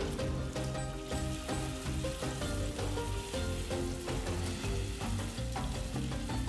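Food sizzling as it fries in a pan, with a fine steady crackle, over background music playing a melody.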